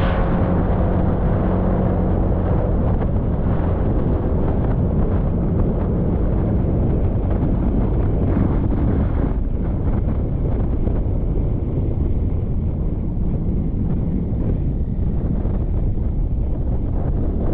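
Wind rushing over the microphone of a moving motorbike, with the engine and road noise running underneath as a steady low drone.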